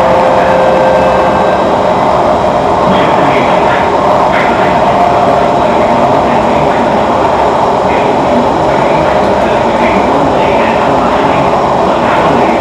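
Singapore MRT train running at speed, heard from inside the carriage: a steady rumble of the moving train with a whine held over it.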